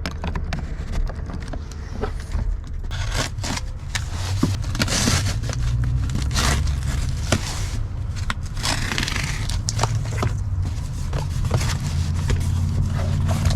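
A cardboard package being cut and torn open: irregular scraping, tearing and crackling of tape and cardboard, with paper rustling, over a steady low rumble.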